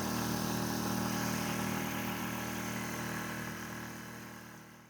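A small sailboat's motor running steadily while the boat motor sails, with a hiss of wind and water over it; the sound fades away near the end.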